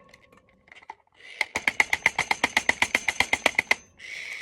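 Rapid metallic tapping, about ten strikes a second with a ringing pitch, as caster stems are hammered into the sockets of a bird cage's legs. A short steady rushing noise follows near the end.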